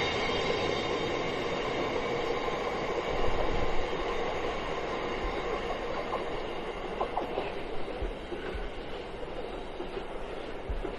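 Freight train wagons rolling past on the track, with a high wheel squeal that fades away in the first few seconds. The rolling noise slowly gets quieter.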